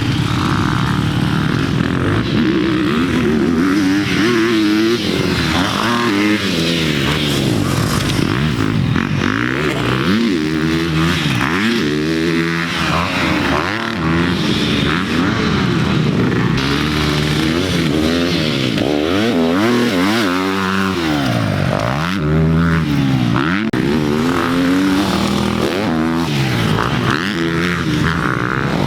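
Dirt bike engine being ridden hard around a motocross track, its pitch rising and falling over and over as the rider opens and closes the throttle and shifts through the gears.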